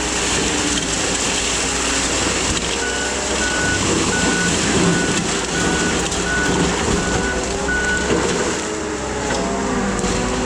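Case skid steer running steadily while its backup alarm beeps about eight times in a row, roughly one beep every 0.7 s, as the machine reverses.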